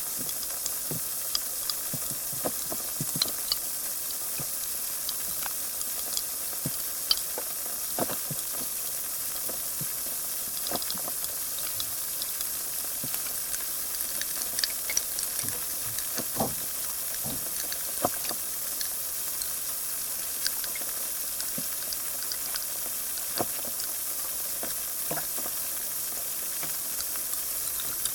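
Carbonated water fizzing: a steady hiss of rising bubbles with many tiny scattered pops and crackles as the bubbles burst.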